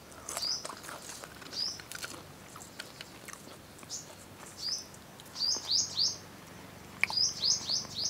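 A bird chirping: short, high, hooked notes, at first one at a time, then in quick runs of three and four near the end.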